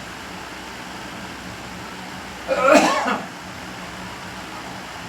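A person's single short, loud vocal outburst about halfway through, like a cough or a sneeze, over a steady low hum.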